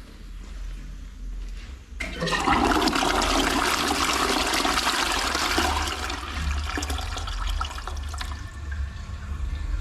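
Toilet flushing: a sudden rush of water about two seconds in, strongest for a few seconds, then easing into a lower steady wash of draining water.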